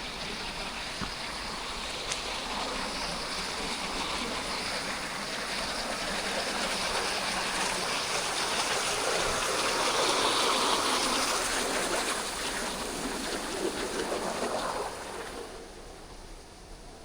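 Steady rushing of water, swelling louder toward the middle and dropping away sharply near the end.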